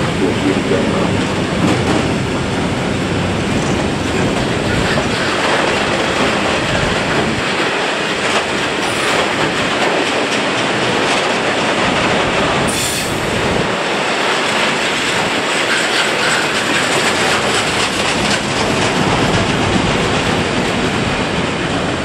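Freight train of covered steel-coil wagons rolling past close by: a loud, steady rumble and rattle of steel wheels on the rails, with a brief sharp high noise about 13 seconds in.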